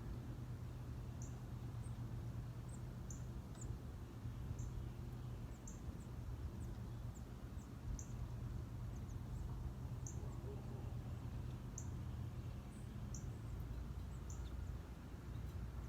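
Birds giving short, high chip notes, repeated irregularly about once a second, over a steady low hum.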